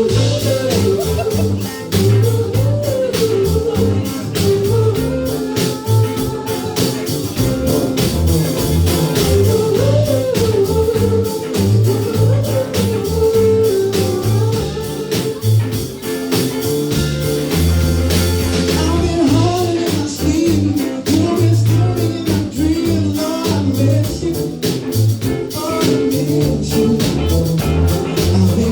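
A band playing a rock-blues cover song: drums keeping a steady beat, bass, guitar, and a singer's voice over it.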